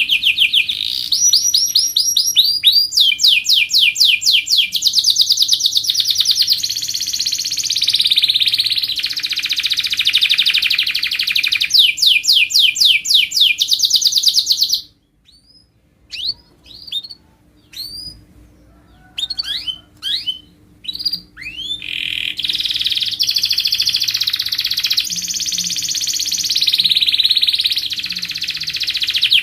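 Domestic canary singing long, fast rolling trills and tours, one rapid phrase after another. About halfway the song breaks off abruptly for several seconds, with only a few short, separate chirps, then the continuous trilling resumes.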